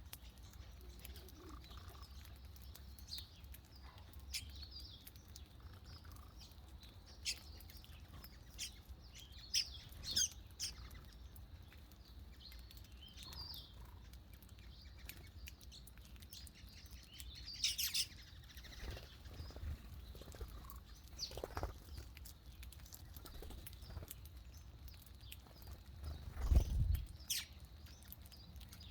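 Birds chirping in short, scattered calls over a faint low hum, with a louder low thump near the end.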